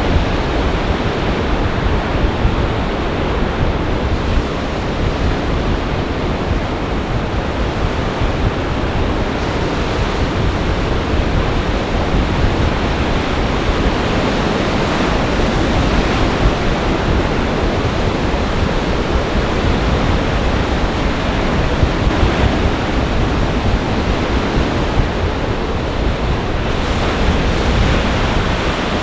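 Lake Michigan storm waves crashing and surging on the shore in a gale, with the wind buffeting the microphone in a steady low rumble.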